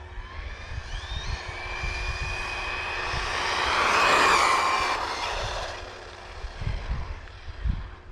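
Electric motor and drivetrain of a WLToys 1/10 4WD RC car whining at speed as it passes, growing louder to a peak about four seconds in and then fading. Wind rumbles on the microphone, with gusts near the end.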